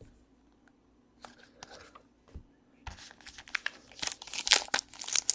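A trading-card pack's wrapper being torn open and crinkled: a few soft clicks, then from about three seconds in a dense crackle of crinkling wrapper that grows louder toward the end.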